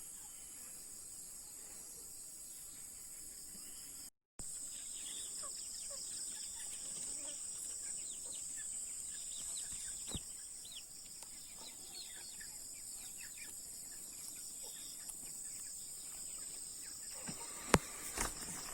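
Chickens clucking and peeping softly at scattered moments over a steady high drone of insects, with a single sharp knock near the end.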